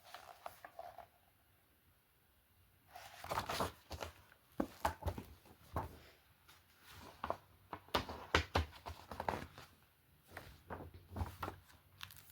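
Paper pages of a book being turned and handled, rustling and crinkling in a string of short bursts starting about three seconds in.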